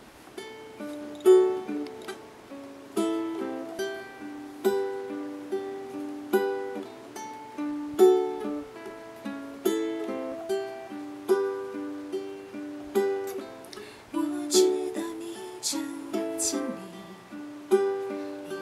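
Solo ukulele played alone, an intro of strummed chords falling in a steady rhythm with picked notes between them, in a small room.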